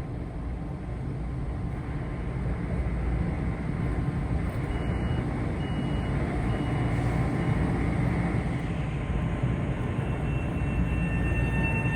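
Metro-North commuter train approaching the platform, its low rumble building steadily louder. Four short high beeps sound evenly spaced around the middle, and steady high-pitched tones come in near the end.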